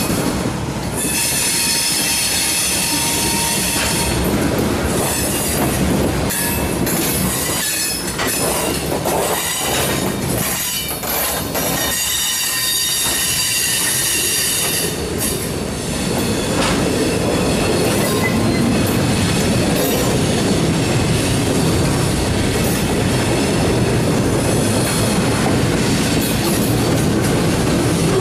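A freight train's cars rolling past close by, their steel wheels squealing in several high tones over a steady rumble, with intermittent clacks of wheels over rail joints. The rumble gets louder and fuller a little past halfway, as loaded flatcars replace the covered hoppers.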